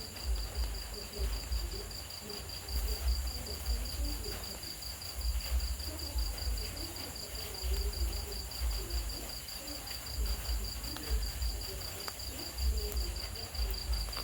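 Crickets chirping in a steady, rapid, high-pitched pulse with a shrill upper ring, over a low uneven rumble.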